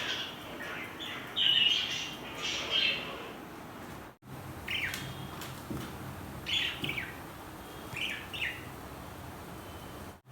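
Budgerigars chirping: a busy run of chirps in the first few seconds, then, after a brief break in the sound, short falling chirps about once a second.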